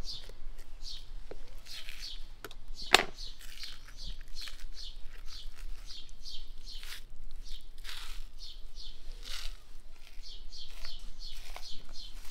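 Small birds chirping over and over, a quick run of short high notes that keeps going, with a single sharp knock about three seconds in.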